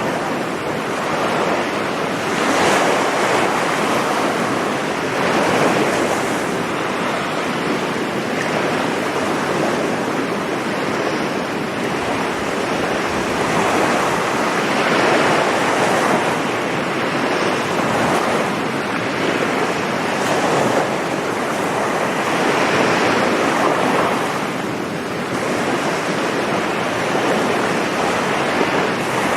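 Sea waves breaking and washing up a beach in a steady surge, swelling every few seconds, with some wind on the microphone.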